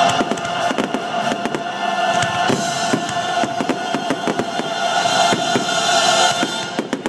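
Fireworks going off in quick succession, a dense run of bangs and crackles, with music holding a sustained chord underneath.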